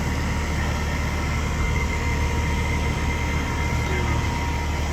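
Steady hum and whoosh of running air-conditioning equipment, with a faint steady whine over it.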